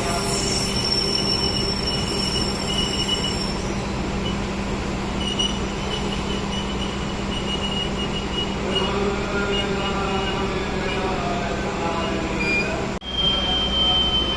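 Train rolling through a station over a steady low engine hum, its wheels squealing in thin high tones that come and go. The sound drops out for an instant near the end, and a new high squeal follows.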